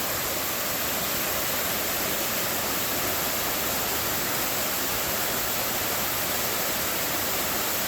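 Small waterfall cascading: a steady, even rush of falling water.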